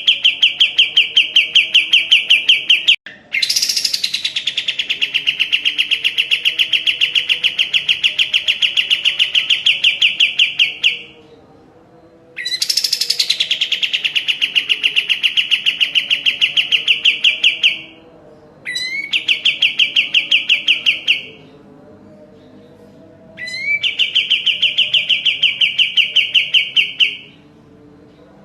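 Kapas tembak songbird singing in long, rapid trills of evenly repeated high notes, five bouts with short pauses between them, several bouts opening with a quick upward sweep.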